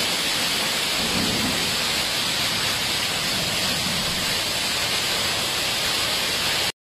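Heavy downpour of storm rain, a steady dense hiss with no separate impacts. It cuts out abruptly near the end.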